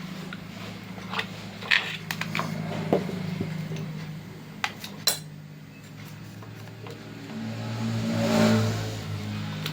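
Small metal parts and tools clinking and tapping during an angle grinder repair, over a steady low hum. About 7.5 seconds in, a louder mechanical hum swells up and then fades.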